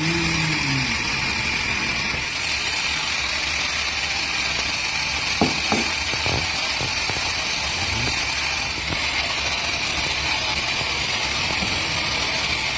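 Chainsaw engine running steadily at idle, with no rise in pitch from cutting, and two sharp knocks close together about halfway through.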